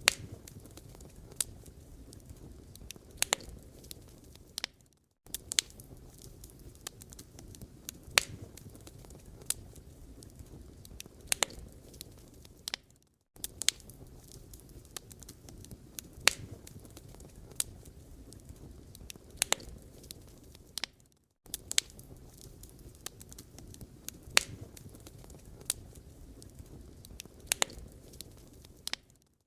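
Wood fire burning in a fireplace: sharp crackles and pops scattered irregularly over a low steady rumble of flames. The sound cuts out briefly about every eight seconds.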